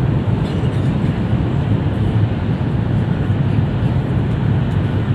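Steady low rumble of a Jakarta–Bandung high-speed train running at speed, heard inside the passenger car.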